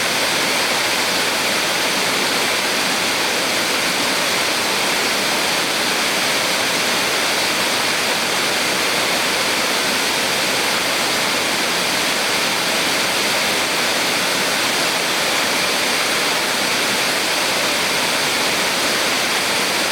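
Small waterfall on a mountain stream: a steady, even rush of falling and splashing water.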